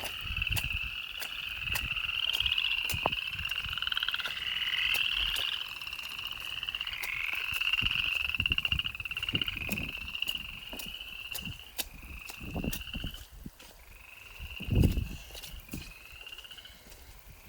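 Chorus of frogs calling in long, overlapping trills that thin out into shorter separate calls in the second half, with a few low thumps and clicks.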